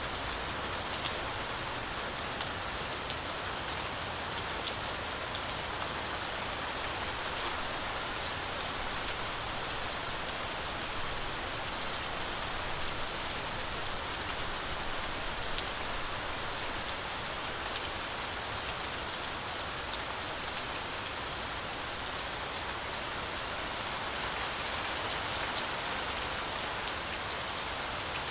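Heavy rain falling steadily, a dense hiss of drops with many small distinct drop ticks on top.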